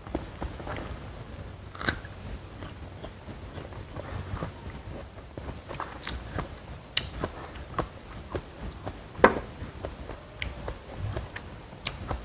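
Close-miked eating: repeated bites and chewing, with sharp crunchy snaps every second or so over steady chewing, the loudest snap a little past the middle.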